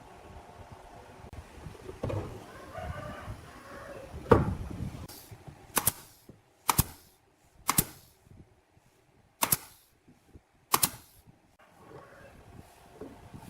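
A loud thump, then five sharp knocks spaced about a second apart, typical of wood being nailed or struck while a birdhouse is assembled.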